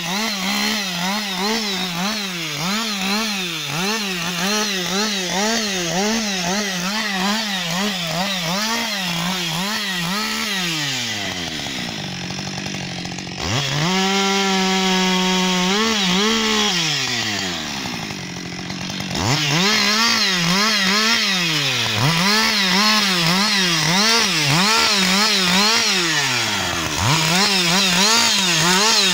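Husqvarna 560 XP two-stroke chainsaw cutting wood at full throttle, its engine speed rising and falling steadily under load. About ten seconds in it drops to idle, revs up once, unloaded and steady, for a couple of seconds, idles again, then goes back to cutting for the rest.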